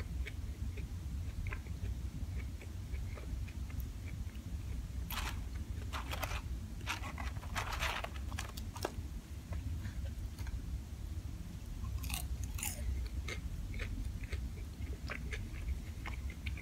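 Close-up chewing and mouth sounds of a person eating fast food. Clusters of crunching come about five to eight seconds in and again about twelve seconds in, over a steady low hum.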